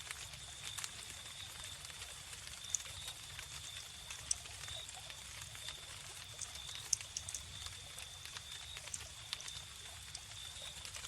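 Wood fire crackling with irregular sharp pops, over a continuous high-pitched pulsing cricket trill.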